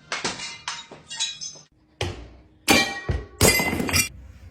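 A quick run of sharp clinks and crashes, about seven separate hits, some ringing briefly after the strike.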